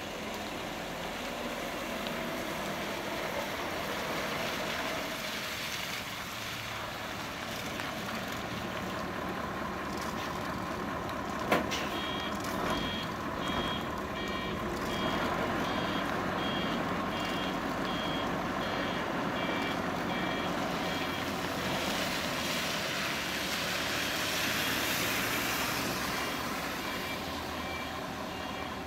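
Reversing alarm of a Hino Selega coach beeping in a steady run about a second after a sharp click, stopping for a few seconds and starting again near the end, over the steady noise of the vehicle.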